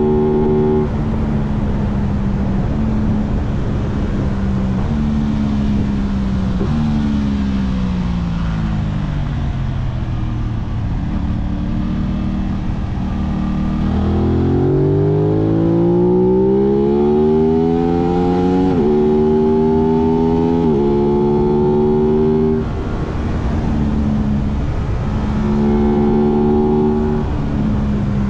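Aprilia 660 parallel-twin engine under way, heard from the rider with wind hiss: revs held and stepped through gear changes, a long drop in pitch as the bike slows about seven to eleven seconds in, then a strong rise in revs from about thirteen seconds, followed by more upshifts with sudden pitch drops.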